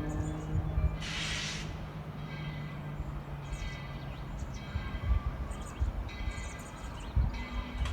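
Tweetsie Railroad No. 12, a narrow-gauge Baldwin steam locomotive, standing or moving slowly with its bell ringing about once a second. A short hiss of steam comes about a second in, and low rumbling builds near the end.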